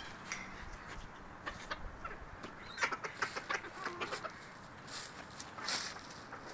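Backyard chickens clucking, short scattered clucks with a small cluster of calls about halfway through.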